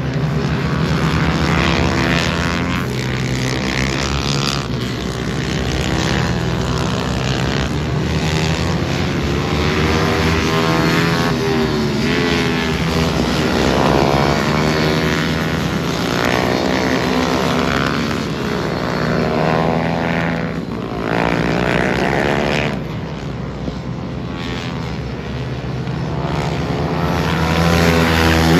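Several race motorcycles' engines revving hard as they pass in a race, the pitches of many engines rising and falling over each other with gear changes.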